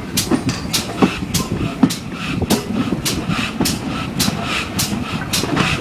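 Heritage steam railway passenger train on the move, rumbling steadily, with sharp clicks that repeat evenly a little under twice a second.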